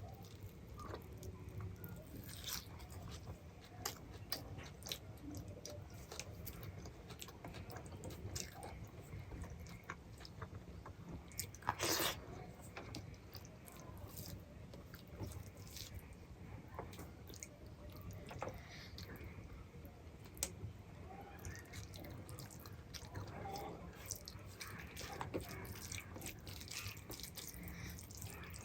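A person chewing and eating food close to the microphone, with many small scattered mouth clicks and crunches and one louder click about twelve seconds in.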